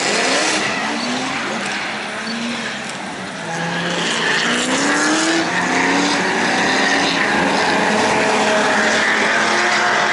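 Drift cars on the track, their engines revving up and down with tyre squeal. The sound grows louder about three and a half seconds in.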